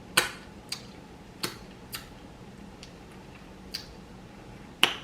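Mouth sounds of eating close to the microphone: six short, sharp smacks and clicks at an uneven pace, the loudest near the end.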